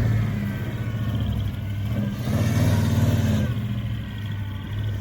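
Pickup truck engine, a 1993 Chevy with a dead cylinder, running and revving, with a louder swell at the start and another about two and a half seconds in.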